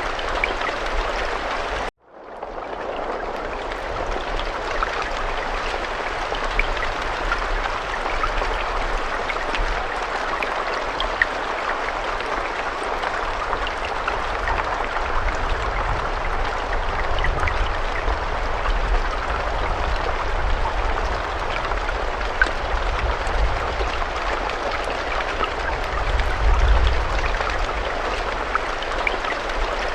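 Steady rain with scattered drops ticking through an even hiss. About two seconds in it cuts out for a moment and fades back in.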